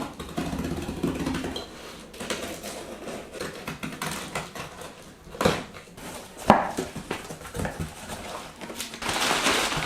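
Hand work on metal parts at a workbench: scattered clinks and knocks, with two sharper knocks around the middle and a hissing rush near the end.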